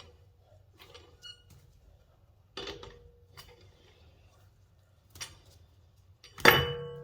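Metal tools and parts being handled: scattered light clicks and clinks, then a loud ringing metallic clank near the end.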